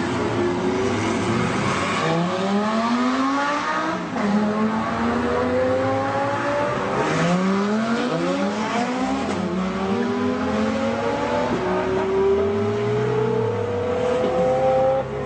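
Supercar engine accelerating hard, its pitch climbing again and again as it pulls through the gears, with a long steady climb near the end.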